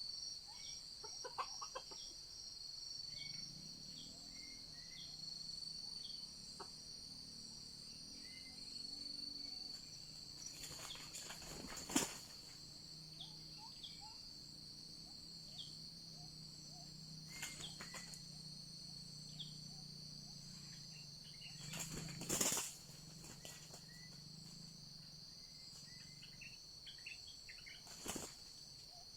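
Forest ambience: a steady high-pitched drone of insects with scattered short bird chirps. Five brief rustling noises break in, the loudest about twelve and twenty-two seconds in.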